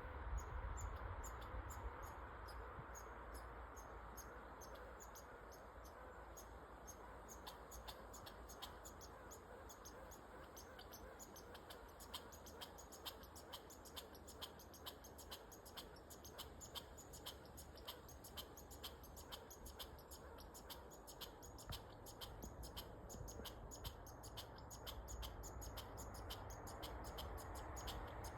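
Squirrel calling: a long run of quick, sharp, high chirps at a steady pace, starting about eight seconds in, over a faint low rumble.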